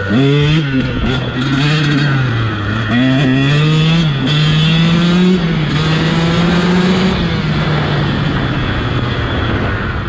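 KTM dirt bike engine revving as it is ridden, its pitch climbing and dropping several times in the first few seconds, then holding higher for a few seconds before easing off a little.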